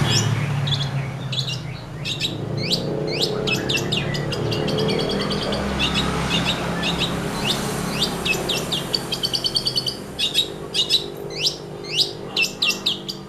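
Long-tailed shrike (cendet) singing a rapid, chattering song of quick, high, downward-sweeping chirps and short trills, growing denser in the second half.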